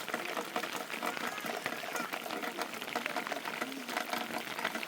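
Steady heavy rain: a dense, continuous patter of many small drops.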